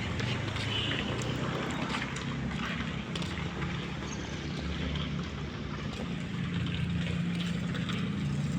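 A vehicle engine runs steadily with a low hum that grows a little stronger near the end, over an even background hiss.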